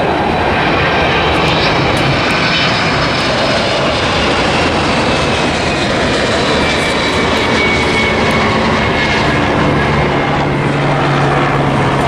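Delta jet airliner on its landing approach passing by, a loud, steady engine rush with a high whine that slowly falls in pitch.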